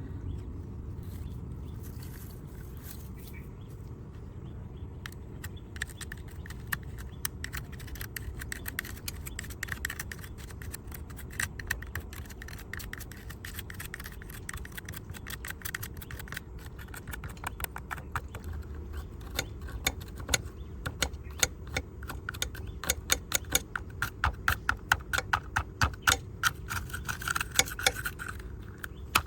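Many small sharp clicks and scrapes, growing quicker and louder through the second half, from hands and small tools working over a diecast model car. A steady low hum runs underneath.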